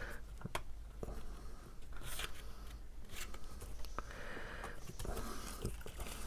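Cardstock pieces being handled and pressed together: faint rustles and scattered light clicks and taps.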